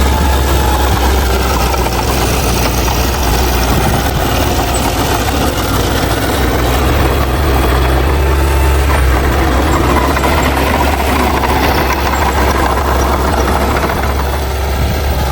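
Bulldozer's heavy diesel engine running steadily, with a strong low drone and no breaks.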